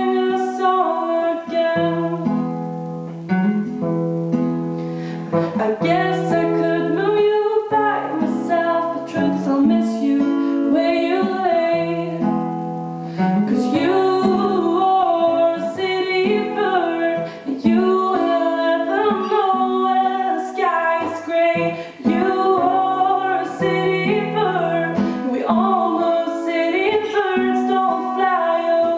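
Acoustic guitar playing the accompaniment of a folk-style song, with a woman singing over it.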